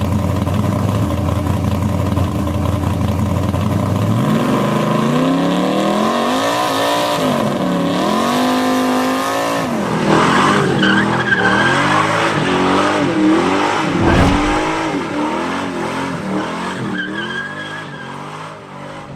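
Ford Mustang 4.0 V6 engine with aftermarket exhaust, running steadily for about four seconds and then revved repeatedly, its pitch climbing and falling several times. From about ten seconds in, a rougher hiss runs along with the revs.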